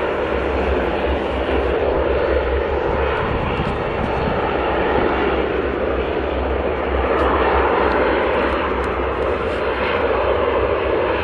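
Turboprop airliner engines and propellers running close by: a loud, steady drone with a deep low hum underneath.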